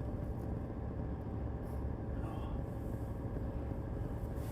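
Parked car idling, heard from inside the cabin as a steady low rumble.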